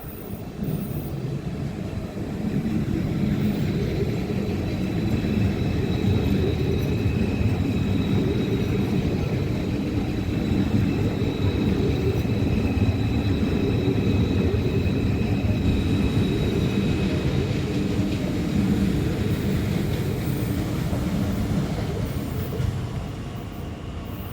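A train running past on the tracks: a steady low rumble that builds over the first few seconds and dies away near the end, with a faint steady high whine above it.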